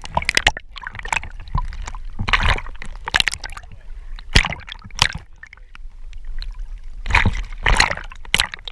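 Water sloshing, splashing and gurgling around the camera in irregular surges, the strongest near the start, around two to three seconds in, and again about seven to eight seconds in.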